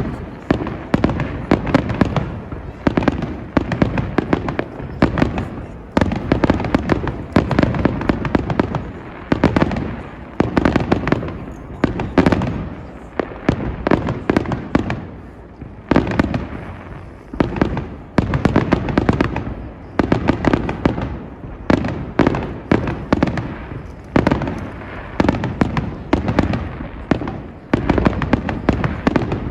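Aerial fireworks bursting in rapid, continuous volleys: many sharp bangs a second, coming in surges a couple of seconds long.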